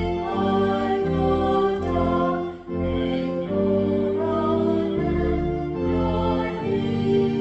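Hymn music: sustained organ-like chords that change every half second to a second, with some singing.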